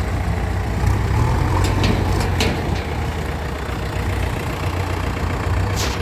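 Heavy diesel engine running steadily at idle, with a few short sharp clicks over it.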